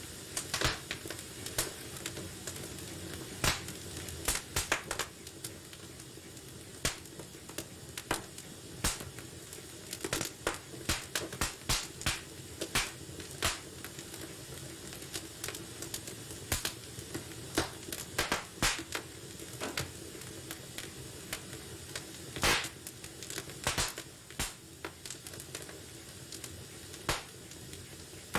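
Wood fire burning in a fireplace, crackling and popping at irregular intervals over a steady low hiss of the flames.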